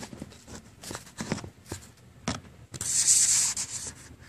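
Handling noise from the recording phone: a few light taps and clicks, then a loud brushing rub across the microphone lasting about a second.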